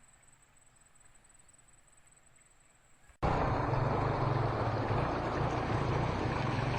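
Quiet with a faint steady high whine, then, after a sudden cut about three seconds in, a loud steady rushing noise with a low rumble underneath.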